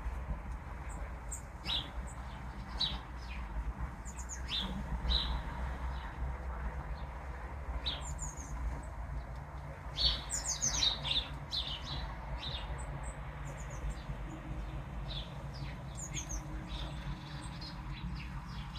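Small songbirds chirping and singing in short, irregular high notes, with a quick run of falling notes about ten seconds in, over a steady low background rumble.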